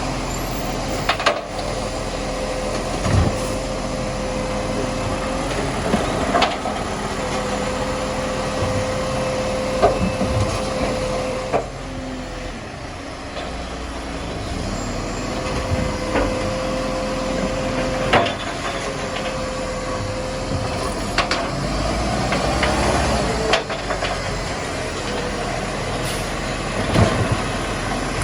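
Garbage truck running, with a steady mechanical whine that holds for several seconds at a time and drops out, and sharp clanks and knocks every few seconds.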